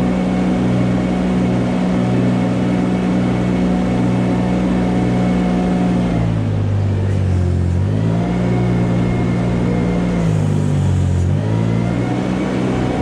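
An engine running steadily. Twice its pitch drops, about six seconds in for a couple of seconds and again about ten seconds in, then climbs back up.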